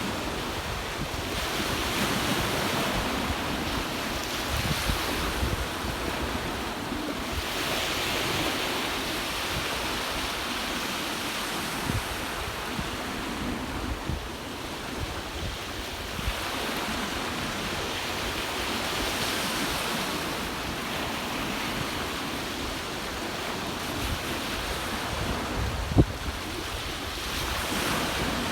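Ocean waves washing onto the shore, a steady surf noise that swells every several seconds, with wind buffeting the microphone. A single sharp tap near the end.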